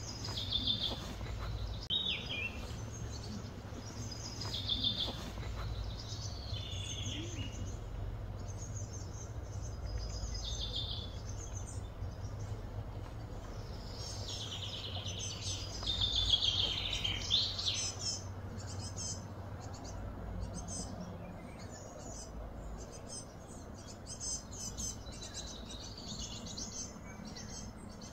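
Birds chirping and calling in short repeated phrases, busiest about halfway through, over a steady low background rumble.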